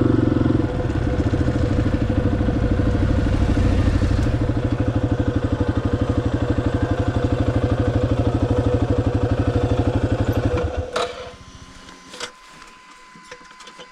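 Motorcycle engine running steadily with an even, rapid pulse, then switched off about eleven seconds in. A few light clicks follow.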